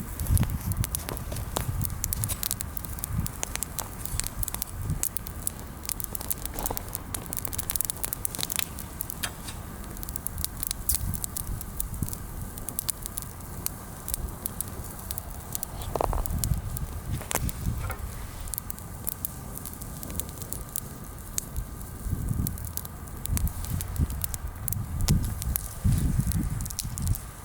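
Bonfire of freshly pruned, mostly green branches crackling and popping with irregular sharp snaps, the fire burning weakly. Low rumbling comes and goes, heaviest near the end.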